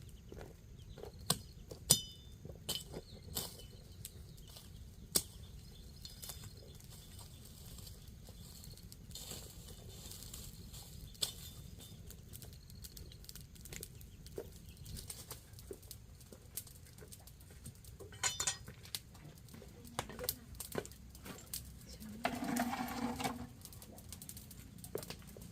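Chickens clucking now and then among scattered light knocks and clicks, with a denser burst of sound near the end.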